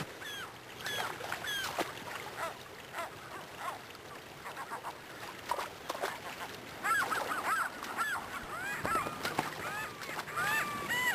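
A flock of birds calling over one another, with many short calls that rise and fall in pitch. The calling grows busier and louder about seven seconds in.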